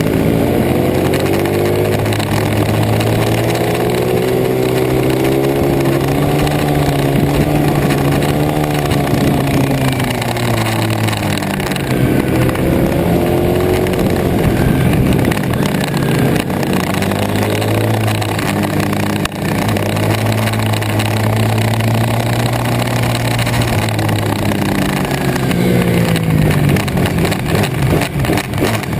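Pit bike engine racing, revving up and down: pitch climbs under acceleration, hangs high, then drops off sharply about 11 seconds in and again near the end before picking up once more.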